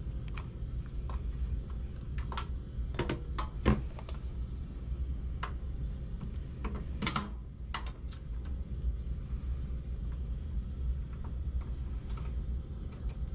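Scattered clicks and knocks of a replacement washer control board being set into its mount and its screws put in, the loudest knocks about four and seven seconds in, over a steady low hum.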